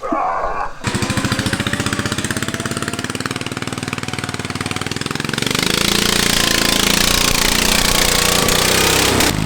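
Mud-racing lawn tractor engine running hard with a rapid, loud firing beat. It gets louder about five seconds in as it revs up under load.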